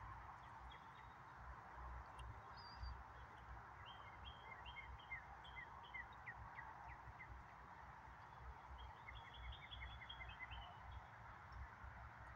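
A songbird singing two runs of quick, evenly repeated chirping notes, one a few seconds in and another near the end, over a faint steady outdoor hiss and a low rumble.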